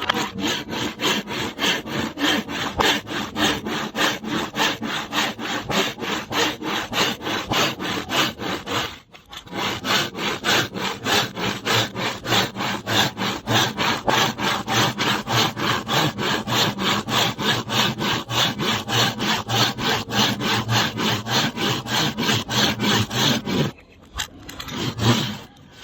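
Bamboo being sawn by hand: quick, even back-and-forth saw strokes, about four a second. They pause briefly about nine seconds in and stop shortly before the end.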